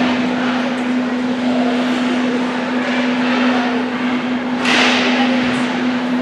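Ice rink ambience during a youth hockey game: a steady hum under a wash of skating and crowd noise, with a sudden sharp scrape about four and a half seconds in.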